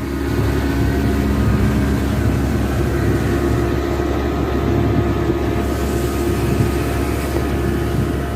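Speedboat engine running steadily, its drone mixed with a constant rushing noise.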